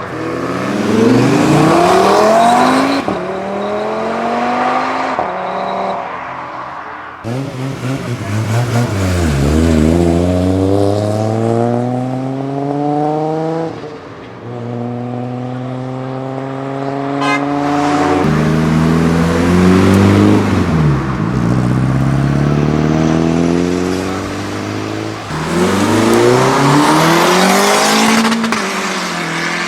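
Modified cars accelerating hard one after another, engines revving up in pitch and dropping back at gear changes or lift-off, in several separate runs.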